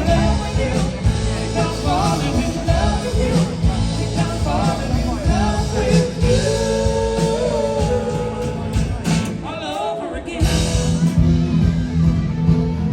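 Live rock-and-roll band playing with a singer, the music dropping briefly about ten seconds in.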